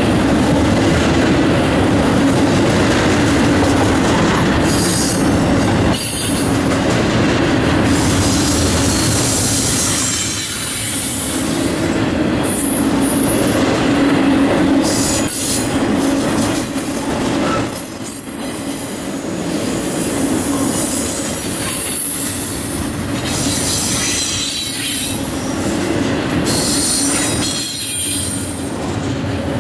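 Train cars rolling past: continuous steel-wheel-on-rail rumble and clatter, with a high-pitched wheel squeal that comes and goes.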